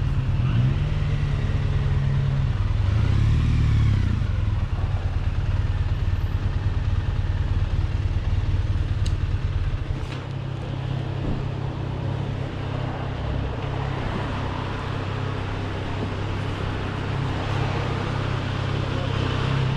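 Triumph motorcycle on the move: engine running under wind and road noise, with the engine note rising and falling in the first few seconds. About halfway through it drops quieter as the bike eases off.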